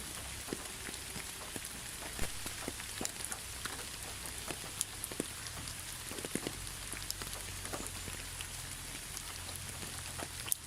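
Steady rain: an even hiss of rainfall with many scattered, louder individual drops ticking on a surface, over a faint low rumble.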